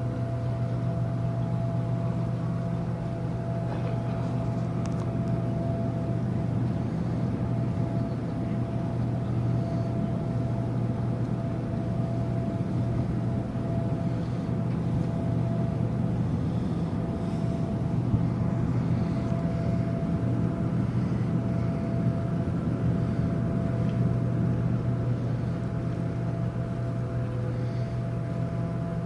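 Cruise ship's engines and machinery droning steadily during docking: a deep, even hum with a fainter steady whine above it.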